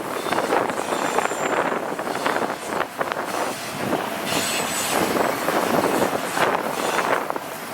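Cars of a long intermodal freight train rolling past, steel wheels rumbling and clattering over the rails, with a thin high wheel squeal briefly about a second in and again around five seconds in.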